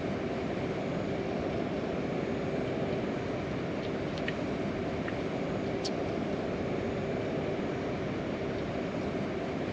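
Steady rushing noise, with a faint steady hum underneath and a few light ticks.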